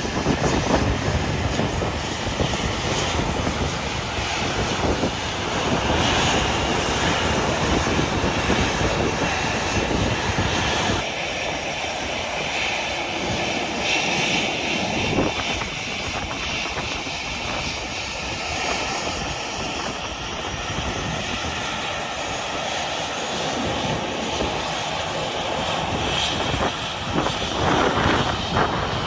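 Airliner engines running at an airport, a continuous rushing noise, with wind buffeting the microphone. The sound changes abruptly about eleven seconds in.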